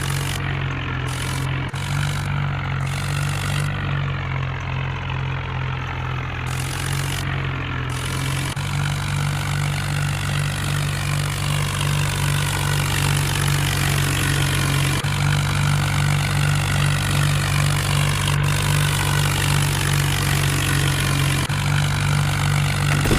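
Mahindra tractor's diesel engine running steadily with a low drone, under an even rushing noise, while it drives a wheat thresher.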